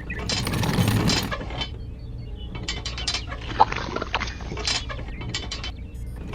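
Mechanical rattling and clicking, dense for the first second and a half, then quieter with a run of sharp clicks and one louder click about three and a half seconds in.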